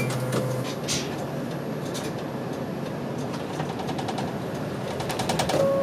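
Route bus running, heard from inside the cabin: steady engine and road noise with a few light clicks. Near the end a chime tone starts and steps down in pitch, the kind that leads into an onboard stop announcement.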